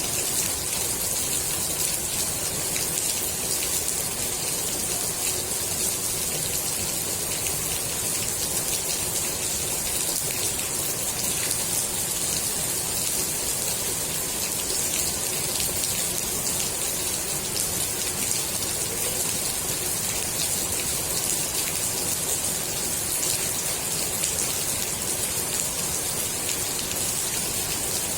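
Steady rain falling on the water of a swimming pool: a dense, even patter of drops hitting the surface, bright and hissy in the high end.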